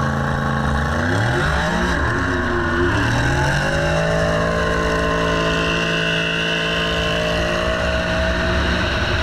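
Race car engine under hard acceleration, its pitch climbing over the first few seconds and then holding high and steady at full throttle.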